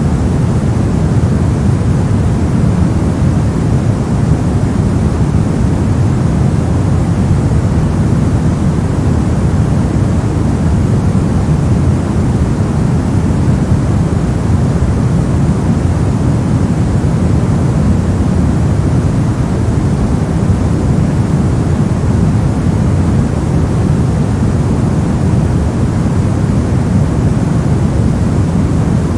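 Steady, unchanging sleep noise sold as white noise, heard as a deep, even rush with most of its weight low down and only a faint hiss on top.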